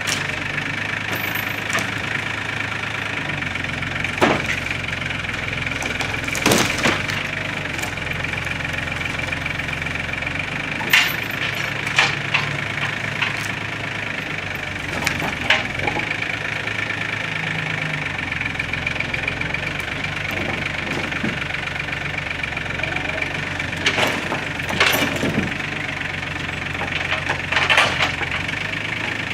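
Challenger MT275 compact tractor's diesel engine running steadily, with a constant high whine over the drone. Sharp knocks and cracks break in every few seconds, about seven in all.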